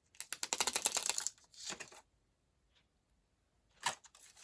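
Self-adhesive bling beads being peeled off their backing sheet: a rapid run of small ticks lasting about a second, a shorter run just after, and a sharper click with a few more ticks near the end.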